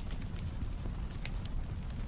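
Campfire crackling: irregular sharp pops and snaps over a low steady rumble, with a cricket chirping in short high trills.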